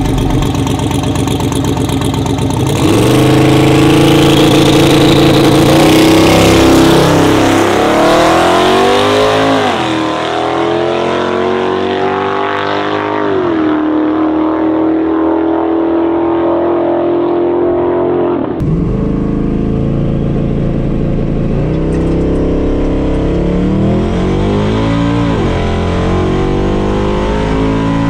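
Twin-turbo LS V8 truck launching hard down the drag strip, the engine revving up through the gears in several rising sweeps, each dropping back at a shift, then holding a steady note. After a sudden change in the sound, more rising revs with quick gear changes follow near the end. The crew puts the slow pass down to the turbos not making boost.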